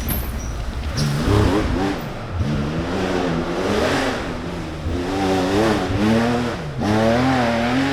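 Rally car engine revving hard, its pitch rising and falling several times, with a sharp dip and climb back near the end.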